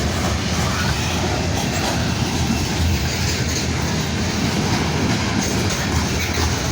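Kansas City Southern freight train's cars rolling steadily past, wheels running on the rails.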